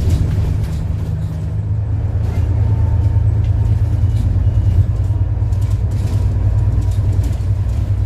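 City bus in motion, heard from inside the cabin: a steady low engine drone with scattered light clicks and rattles.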